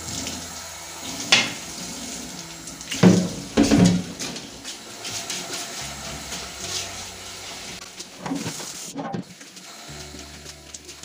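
Kitchen tap water running into a sink, with several sharp knocks of items being handled in it, loudest about three to four seconds in.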